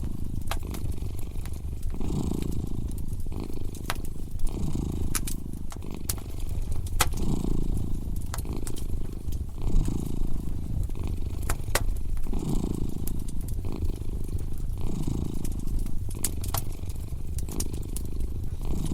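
A cat purring close up, a steady low rumble that swells with each breath about every two and a half seconds, layered with a crackling wood fire whose sharp pops and snaps come irregularly.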